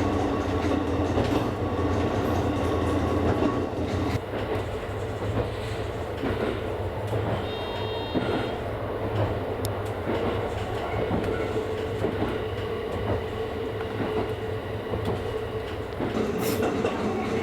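Electric train on the Kakogawa Line running along the rails, heard from on board: a steady low motor hum with wheel and track noise. The hum drops away about four seconds in and comes back near the end.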